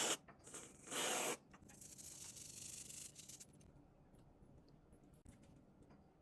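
Rustling and scraping: two short bursts near the start, then a softer scrape lasting about two seconds.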